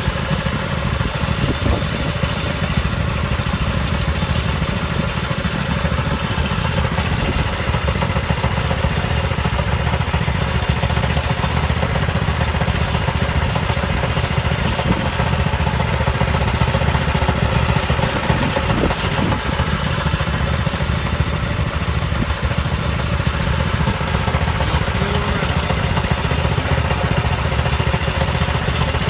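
Predator 6.5 hp single-cylinder four-stroke engine on a Baja mini bike, running steadily at an even speed.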